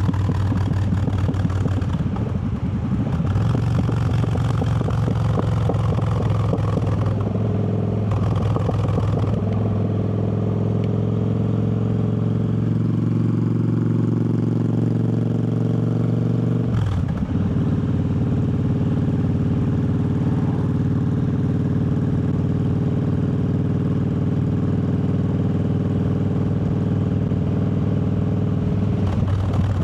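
Triumph Bobber's parallel-twin engine running under way, its pitch climbing slowly before a brief dip about seventeen seconds in, like a gear change, then running steadily.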